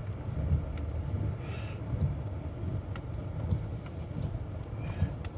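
Inside a moving car in the rain: a steady low engine and road rumble with scattered light ticks and two brief hissing swishes.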